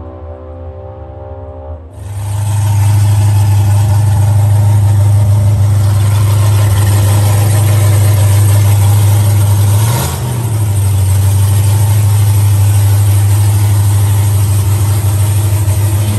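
Music for the first two seconds, then a COPO Camaro drag car's V8 running loud and steady at a fast idle, with a brief dip and blip in the engine note about ten seconds in, as the car is driven slowly into an enclosed trailer.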